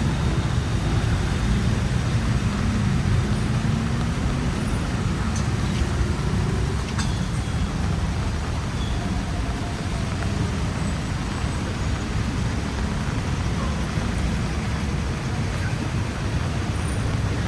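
Busy city road traffic: a steady rumble of passing cars, buses and trucks.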